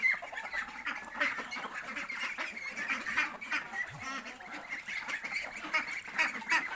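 A flock of farmyard poultry calling all at once, many short overlapping calls, as the birds crowd at their feed.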